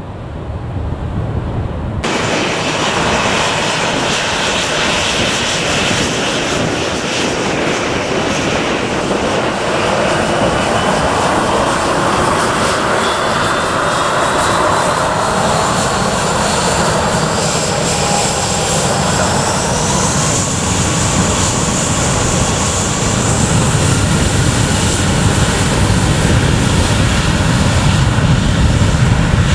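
Airliner engines at takeoff power close by: a loud, dense rushing noise that starts suddenly about two seconds in, with a whine rising in pitch through the middle and the level slowly building toward the end.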